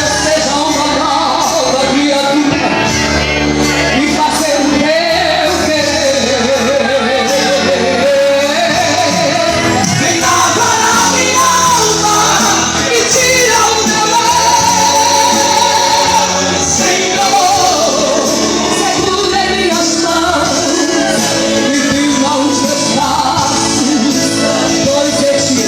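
Live gospel music: a female singer with a full band, loud and continuous.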